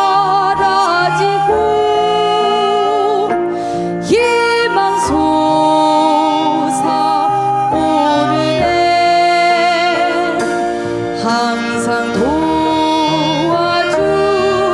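A Korean traditional (gugak) ensemble with piano plays, with a woman's voice singing long notes that waver and bend in pitch, over plucked notes.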